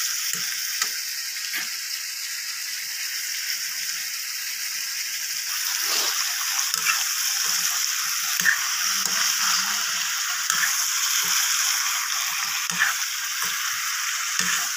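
Chicken and radish pieces sizzling in a metal pan over a gas flame, with a spoon scraping and knocking against the pan as they are stirred. The sizzle grows louder about six seconds in.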